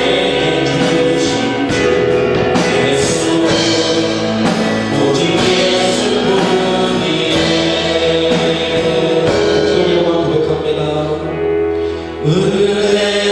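Church praise-worship music with a steady beat and sustained chords, with some singing; the chords change about twelve seconds in.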